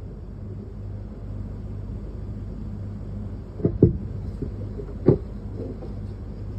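A steady low hum, with a few sharp knocks a little after halfway.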